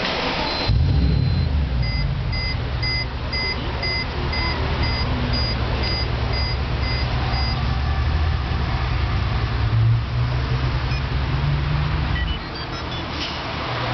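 Mercedes-AMG C63 V8 engine cranking and catching about a second in, then idling with a deep, steady rumble that swells briefly near the end and drops away shortly before it. For the first several seconds after the start, an electronic warning chime beeps about twice a second.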